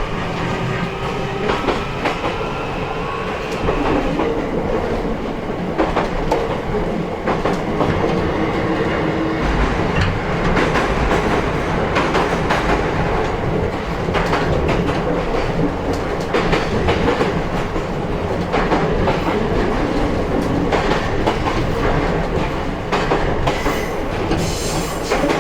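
Interior running sound of a JR East E131 series electric train heard from the motor car, with a steady rumble and wheels clicking over rail joints. A brief high-pitched sound comes near the end.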